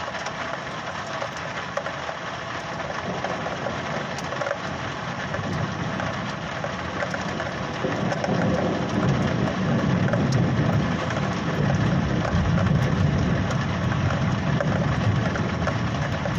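Steady rain with a low rumble of thunder that builds about halfway through and keeps rolling.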